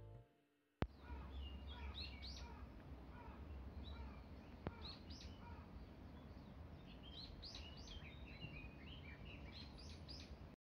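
Small birds chirping in short, repeated calls over a faint low steady rumble of outdoor background noise; the sound cuts in abruptly with a click about a second in.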